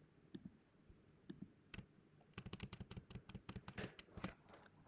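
Computer keyboard typing: a few separate keystrokes, then a quick run of keystrokes from about halfway through.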